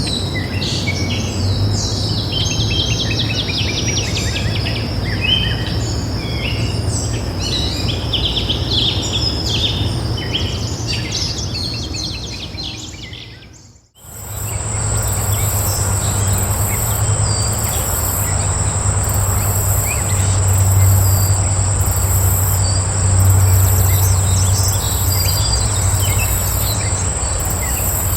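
Many small birds chirping and singing over a low steady background rumble, fading out about halfway through. Then a steady high-pitched insect trill, like crickets, pulsing about once a second over a low rumble.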